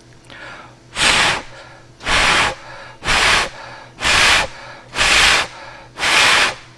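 Six short puffs of breath blown at a sound-sensor microphone, about one a second, each a breathy gust of air noise.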